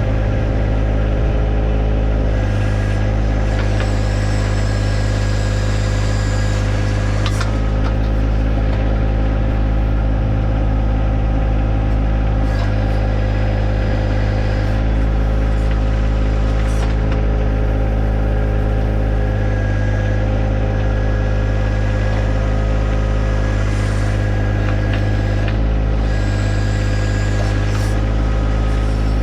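John Deere 1025R compact tractor's three-cylinder diesel running steadily while working the 260B backhoe, with a higher tone that comes and goes several times and a few sharp knocks.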